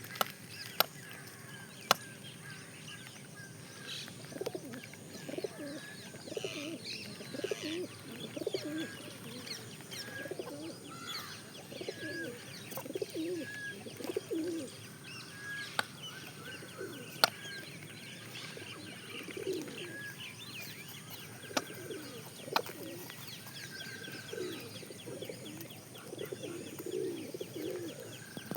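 Pigeons cooing in low, repeated phrases, with smaller birds chirping higher up and a few sharp clicks.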